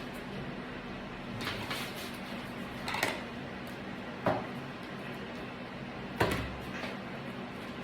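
A handful of sharp knocks and clicks, about five, spaced irregularly, from work on a window screen frame, over a steady low hum.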